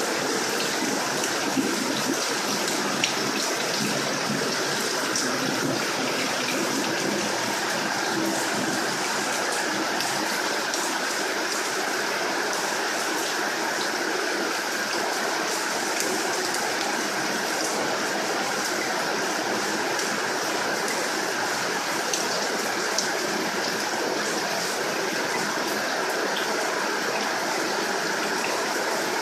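Heavy rain falling steadily, an even hiss with scattered ticks of drops striking.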